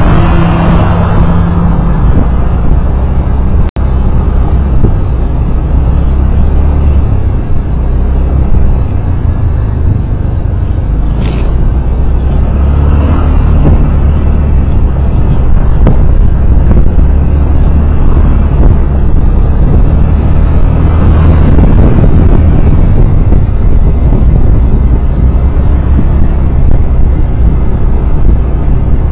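Loud, steady rumble of driving on a road, with other vehicles swelling past now and then. The sound cuts out for an instant about four seconds in.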